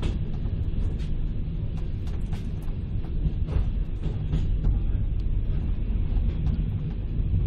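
Passenger train carriage in motion, heard from inside: a steady low rumble of the running gear, with scattered sharp clicks and knocks.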